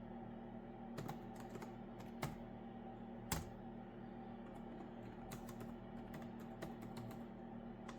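Typing on a computer keyboard: short runs of key clicks with pauses, one louder click about three seconds in, over a steady low hum.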